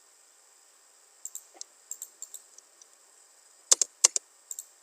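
Computer keyboard typing and mouse clicking: scattered, irregular clicks, with several louder key presses close together a little before the end.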